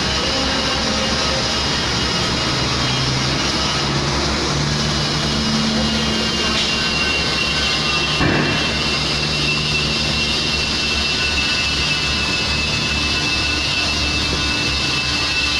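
Large diesel engine running steadily, with a thin steady high whine over it and a single short knock about eight seconds in.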